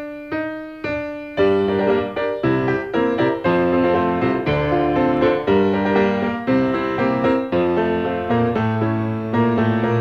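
Piano playing the introduction of a tango song: three single struck notes, then a run of chords, each note left to ring and fade.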